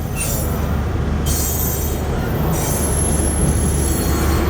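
Loaded double-stack container cars of a freight train rolling past: a steady low rumble with patches of high hiss and a thin, high-pitched wheel squeal.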